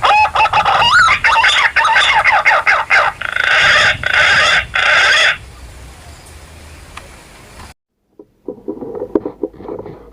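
Punai (green pigeon) calls: loud, warbling whistled notes with gliding pitch for about five seconds, then much quieter. After a brief cut, a few short rough bursts of sound follow.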